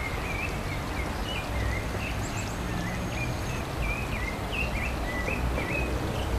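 A bird repeating short wavering chirps, about two a second, over a steady background hiss.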